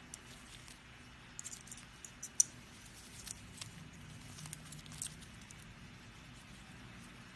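Faint, scattered light clicks and scratches of a small pet bird moving about, with one sharper click about two and a half seconds in.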